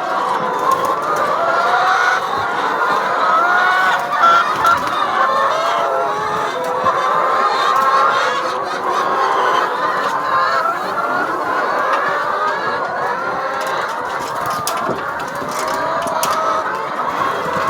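A flock of chickens clucking and calling, many birds at once in a steady, overlapping chorus.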